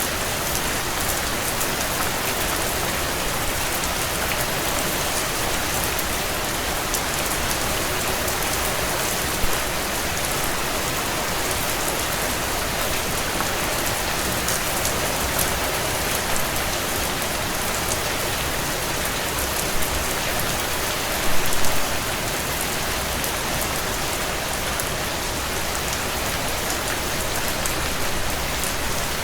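Heavy rain drumming steadily on a tin roof, a dense patter of drops with a few brief louder splashes about two-thirds of the way through.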